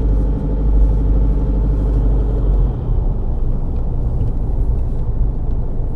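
Car engine and road noise heard from inside a moving vehicle: a steady deep rumble with an engine hum, the lowest rumble easing a little about three seconds in.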